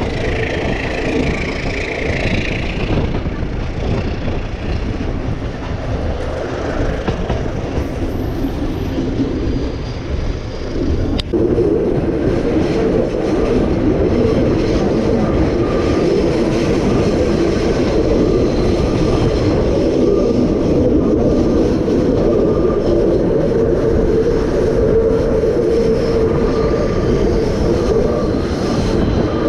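Passenger train running on the rails, a steady rolling rumble that steps up abruptly louder about eleven seconds in.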